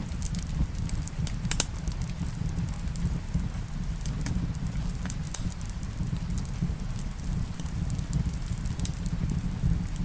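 Wood fire crackling in a fireplace: scattered sharp pops and snaps, a few louder ones about a second and a half in, over a steady low rumble.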